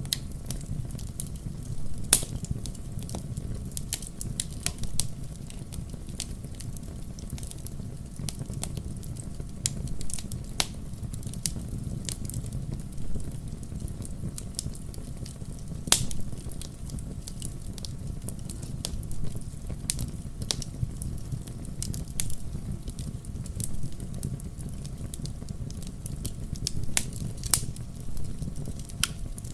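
Wood campfire crackling steadily over a low rumble of flame, with scattered sharp pops, a few louder ones standing out.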